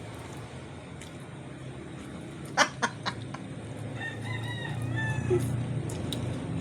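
A rooster crowing: one drawn-out, wavering call about four seconds in, lasting just over a second. A few sharp clicks come before it, about two and a half to three seconds in.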